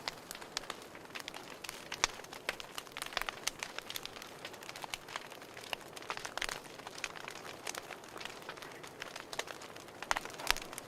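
Wood fire crackling: irregular snaps and pops over a steady hiss, with a louder pop about two seconds in and a cluster of sharper pops near the end.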